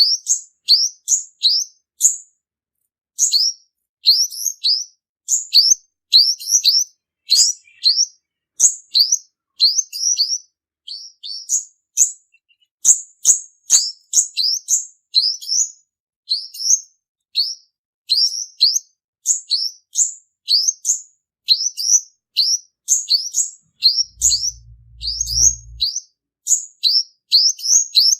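Male purple-throated sunbird calling: a rapid run of short, sharp, rising chirps, several a second, broken by brief pauses. A low hum sounds for about two seconds near the end.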